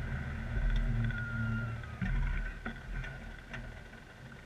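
Victory Cross Country's V-twin engine idling with a low, steady rumble, easing a little near the end.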